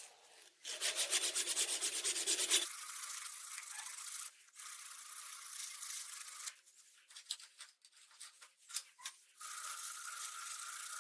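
Abrasive rubbing on the corn sheller's metal: quick scraping strokes that stop and start a few times.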